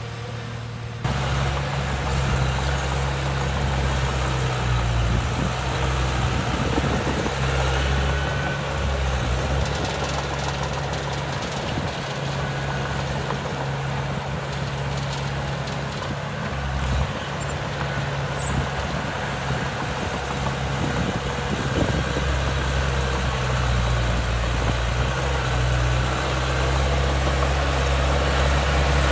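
Heavy diesel engine of earthmoving equipment running steadily at a low, even pitch. It gets suddenly louder about a second in.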